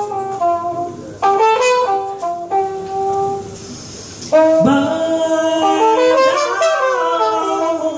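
Jazz trumpet playing melodic phrases over the band's accompaniment. It plays more softly for a moment, then comes back loud with held notes about four seconds in.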